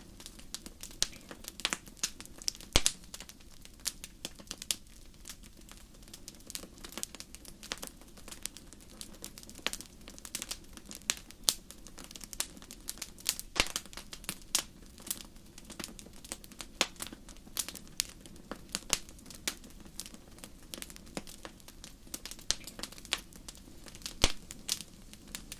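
Wood fire in a fireplace crackling, with frequent sharp irregular pops over a soft low rumble of the flames.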